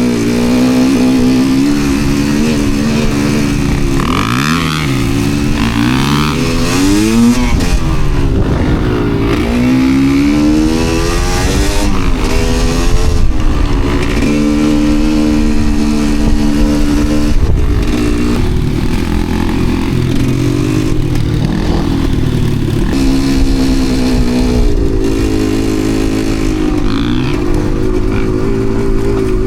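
Enduro dirt bike engines revving up and down repeatedly under riding load, the pitch rising and falling every second or two. A second bike's engine can be heard alongside, its pitch crossing the first a few seconds in.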